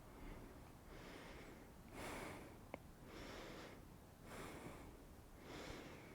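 Faint, audible breathing through the nose by a person holding a yoga pose, with a soft rush of air about once a second. A small click sounds near the middle.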